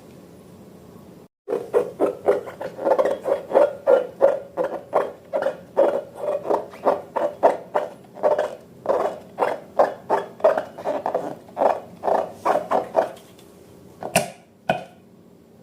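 Slime being squeezed and kneaded by hand in a fast, even rhythm of wet squelches, about three a second, followed near the end by two sharp clicks.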